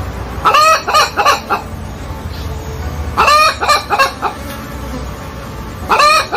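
Chicken calling in three bouts about two and a half seconds apart, each a quick run of short clucking notes.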